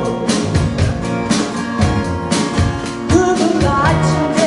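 Live rock band music: drum kit and guitars, with a singer's voice coming in near the end.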